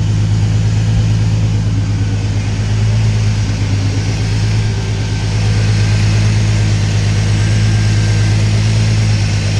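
Twin-turbocharged V engine in an MG Midget project car idling steadily on its first run after the build.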